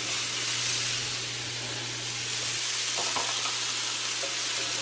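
Fresh asparagus spears sizzling in cooking spray on a hot electric griddle: a steady, even hiss.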